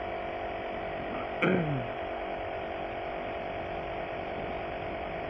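A steady machine hum made of several fixed tones, with one short vocal sound, like a brief 'hm', about one and a half seconds in.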